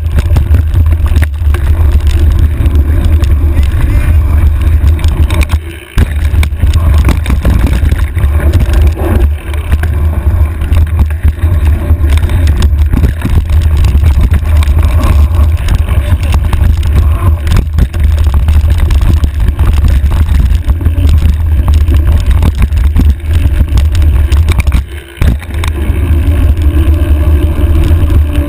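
Wind buffeting the microphone of a handlebar-mounted camera on a mountain bike riding down a rough trail: a loud, steady rumble with the clatter of the bike over the ground. It drops out briefly about six seconds in and again near the end.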